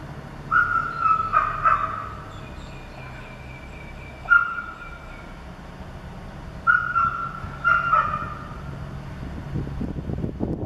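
A bird calling: a group of three short pitched calls, a single call about four seconds in, then three more around seven to eight seconds in, over a steady low hum.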